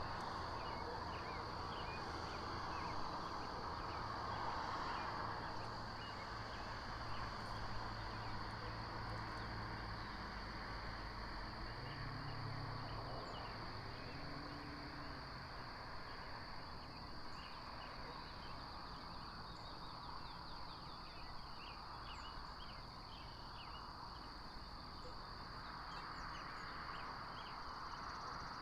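Outdoor ambience at a nest camera's microphone: a steady high-pitched buzz with scattered faint short chirps over a low rumble.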